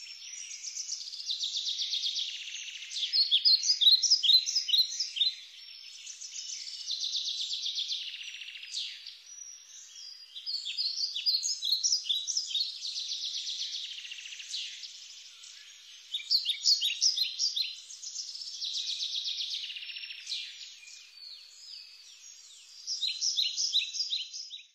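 A songbird singing, outdoors in the open: high phrases a few seconds long, each a fast trill or a quick run of notes, repeating after short pauses. The song cuts off suddenly at the end.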